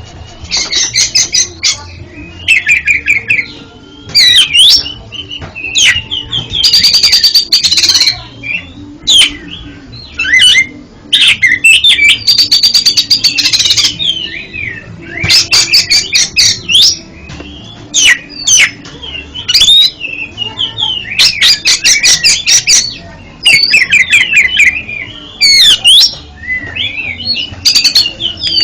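Oriental magpie-robin singing a long, varied song of loud whistled phrases, rapid chattering trills and sharp single notes, with short pauses between phrases.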